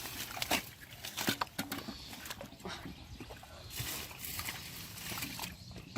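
Sloshing and splashing in shallow muddy water, with many short sharp slaps and clicks, as a fish is grabbed and held by hand.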